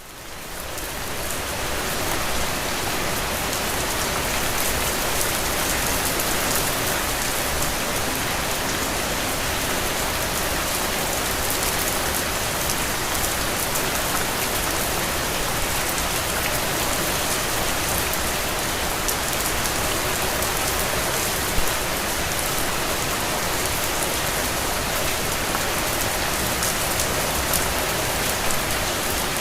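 Steady rain falling on a surface, a dense even patter of drops that fades in over the first couple of seconds and then holds level, with one sharper drop about two-thirds of the way through.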